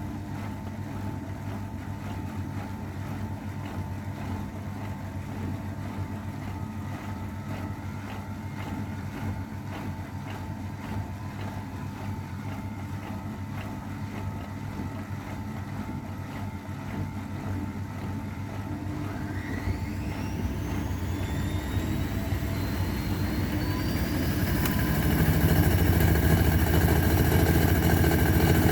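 AEG Öko-Lavamat 693 washing machine running with a steady motor hum, then about two-thirds of the way in its motor winds up into a spin with a rising whine. The machine settles at a louder, steady spin near the end.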